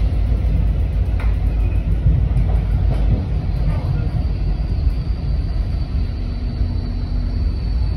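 Steady low rumble of an MBTA commuter rail train running along the track, heard from inside the passenger coach, with faint clicks. A faint high whine comes in about halfway through.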